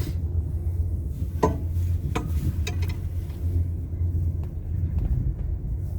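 Steady low wind rumble on the microphone during a four-seat chairlift ride, with a few sharp clicks and clanks about a second and a half to three seconds in and fainter ticks later.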